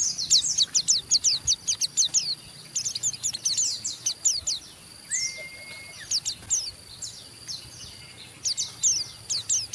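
White-eye (pleci) giving its rough 'ngeriwik' chatter: bursts of very rapid, high, downward-sweeping chirps, several a second, with short pauses between bursts. A single held, lower whistle about halfway through.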